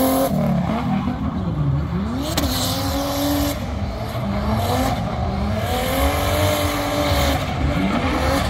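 Drift car engine at high revs, its pitch dropping and then climbing sharply several times as the throttle is worked on and off.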